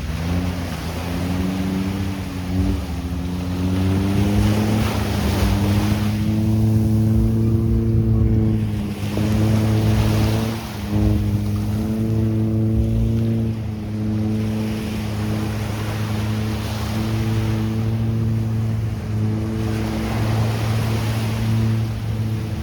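Motorboat engine speeding up, its pitch rising over the first few seconds, then running steadily at one pitch, with waves washing onto the beach in repeated surges.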